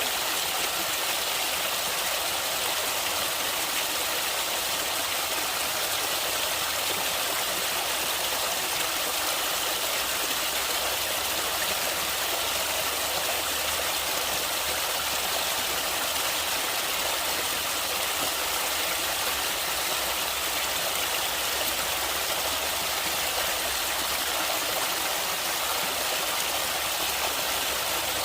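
Stream water rushing and splashing steadily, an even hiss with no breaks.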